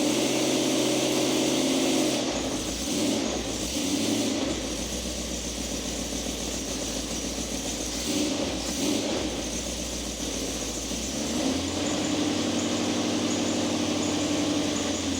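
Car engine running through a newly fitted exhaust: held at raised revs for the first couple of seconds, settling to a lower idle, then brought up to higher revs again about eleven seconds in.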